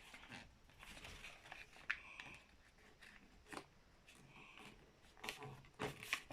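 A sheet of paper being folded and creased by hand: faint rustling with several short crisp crinkles, a few stronger ones near the end.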